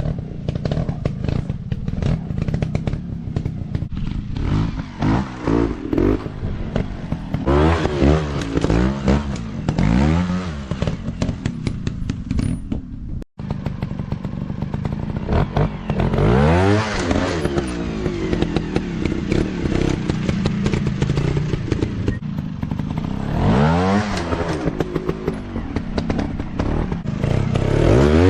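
Dirt bike engines revving hard and backing off again and again, the pitch sweeping up and falling back several times, with a very brief break a little under halfway through.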